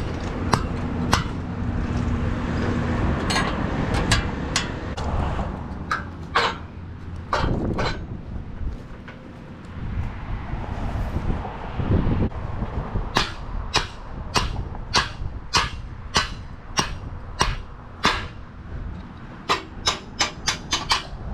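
Hammer blows on wooden concrete forms: scattered strikes at first, then a steady run of about two a second in the second half and a quicker flurry near the end. A low engine rumble runs underneath in the first half.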